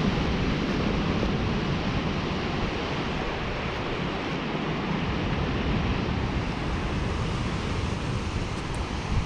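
Wind buffeting the microphone over a steady, continuous rush like surf on a lakeshore, with no separate events standing out.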